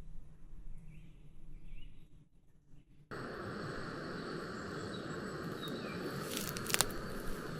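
Faint low rustling at first. About three seconds in, a steady evening forest ambience of insects chirring starts abruptly, with a few sharp clicks near the end.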